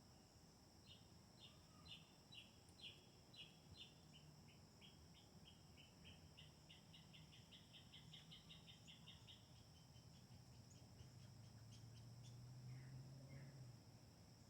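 A bird calling: a long series of high chirps, spaced out at first and then speeding up into a quick run before trailing off near the end. Behind it runs a faint, steady high-pitched insect drone.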